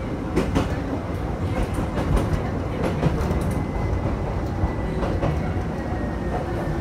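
Electric train heard from inside the front cab, running with a steady low rumble and scattered clicks of the wheels over the rails. A faint high whine slowly drops in pitch as the train slows toward a station.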